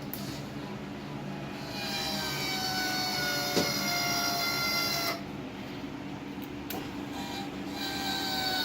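Electric steering actuator motor on a radio-controlled lawn tractor whining as it drives the steering, its pitch slowly falling, in two runs: one of about three seconds, then another starting near the end. A steady low hum runs underneath, and a single sharp click comes mid-run.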